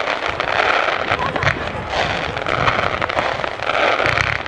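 Fireworks display crackling and popping over a continuous rushing hiss that swells and fades about three times, with no single big bang.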